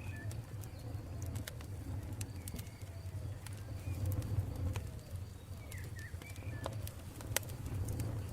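Campfire burning: wood crackling with irregular sharp pops over a low, steady rumble, with birds calling faintly in the background.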